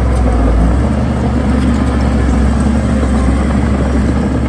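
Heavy diesel engine of earthmoving equipment running steadily with a deep rumble, its note shifting slightly about a second in.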